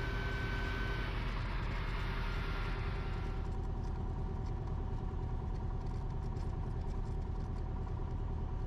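Cessna 172RG's four-cylinder Lycoming engine and propeller running steadily in flight, with a steady drone. A higher rushing noise over it fades away about three and a half seconds in.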